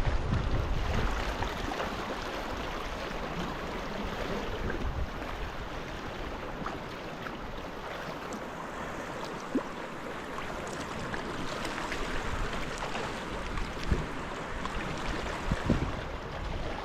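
Sea water splashing and lapping around a sea kayak on the move, a steady wash, with a few short knocks.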